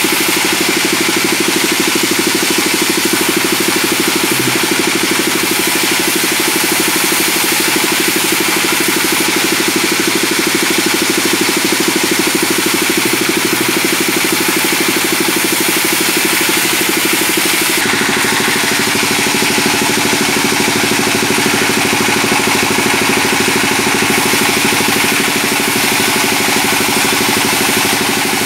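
Sawmill band saw and its drive engine running steadily while sawing hardwood with a new blade. About eighteen seconds in, the sound changes and a deeper hum fills in.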